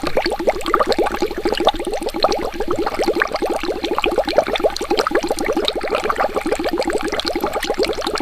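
Water bubbling steadily: a dense, unbroken stream of bubble plops, about ten a second, each a short blip that rises in pitch.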